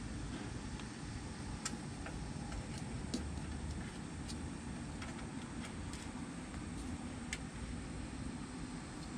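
Kittens playing: light clicks and taps at irregular intervals over a steady low background hum.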